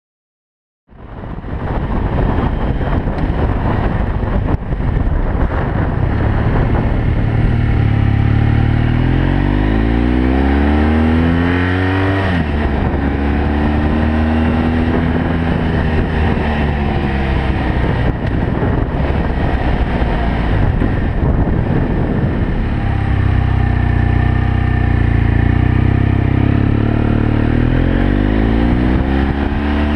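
BMW F 800 GS Adventure's parallel-twin engine under way, starting abruptly about a second in. It rises in pitch through the gears, drops at a gear change about twelve seconds in, and rises again near the end.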